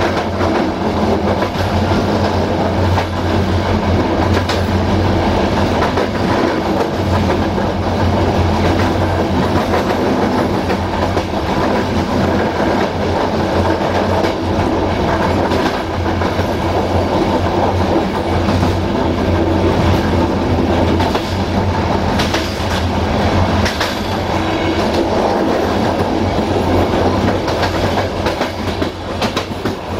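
Passenger train coaches running along the track: a steady rumble of wheels on rail, with occasional clicks as the wheels cross rail joints.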